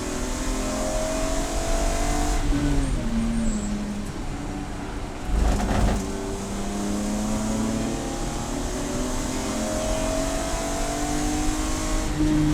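Race car engine under hard acceleration, its pitch climbing steadily, then dropping in quick steps about two and a half seconds in as it downshifts. A short heavy thump comes near the middle, then the engine climbs again for several seconds before stepping down once more near the end.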